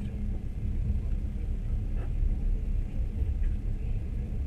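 Steady low rumble of a moving passenger train heard from inside the carriage, with a faint steady hum under it.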